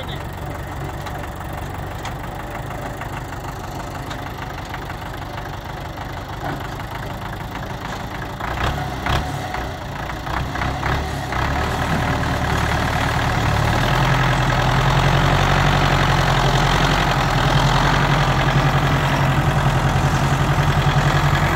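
Tractor engine running: a steady idle that picks up about halfway through and runs louder and harder for the rest of the time.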